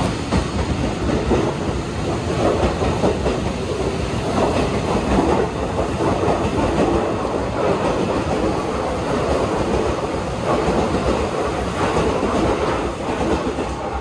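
Tokyo Metro 18000-series electric train pulling out of the station, its cars running past at close range with steady wheel-and-rail noise, falling away at the very end as the last car clears the platform.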